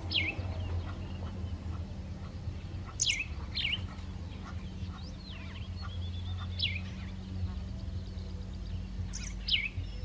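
Bird chirping: about five short, sharp calls, each sliding quickly down in pitch, spaced a few seconds apart, over a steady low hum.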